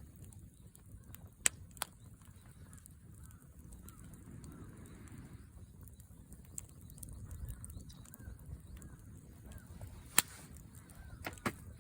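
Wood fire burning with a low rumble and a few sharp pops, two early, one loud one near the end and a quick pair just after. Faint short bird-like calls sound in the background.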